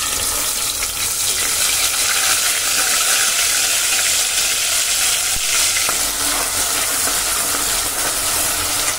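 Wet ground paste of onion, tomato, ginger, garlic and green chilli frying in hot oil in a pressure cooker, with a loud, steady sizzle as it is poured in. A spoon stirs it near the end.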